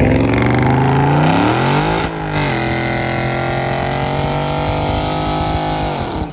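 Car engine accelerating hard, its pitch rising. About two seconds in the pitch dips briefly, then the engine is held at high revs. Near the end the revs fall and the sound cuts off abruptly.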